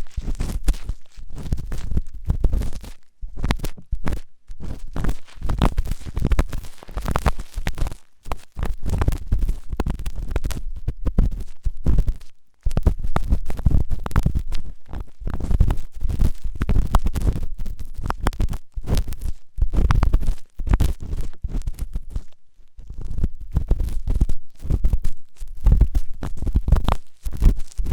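Ear-cleaning tools scraping and rubbing hard against a microphone ear, in dense irregular scratches with deep rumbling thuds, pausing briefly a few times.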